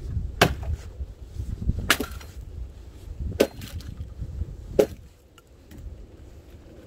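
Kindling wood being chopped: four sharp wooden strikes, evenly spaced about a second and a half apart.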